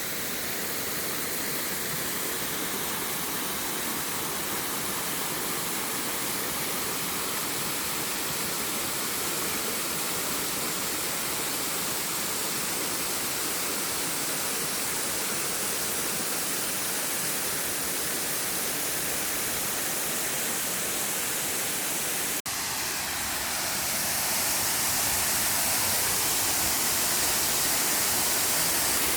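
Birnam Falls waterfall rushing steadily, running in full flow after heavy rainfall. A short break comes about 22 seconds in, after which the rush is louder.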